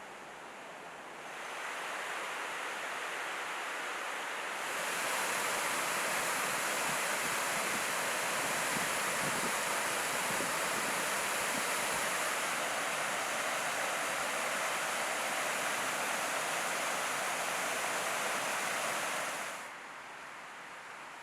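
Mountain stream running high after rain: a steady rush of water that grows louder about five seconds in and drops back near the end.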